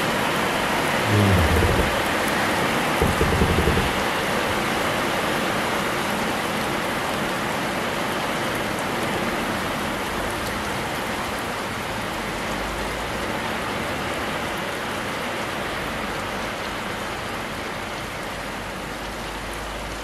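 Rain falling steadily on roofs, grass and wet paving: an even hiss that eases slightly toward the end. A few low rumbles come in the first four seconds.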